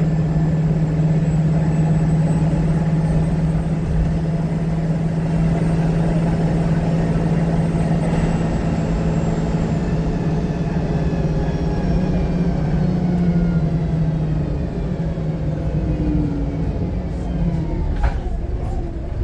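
VDL SB200 single-deck bus's diesel engine running on the move, heard from inside the passenger saloon: a steady drone whose pitch falls through the second half as the bus slows. A sharp click sounds near the end.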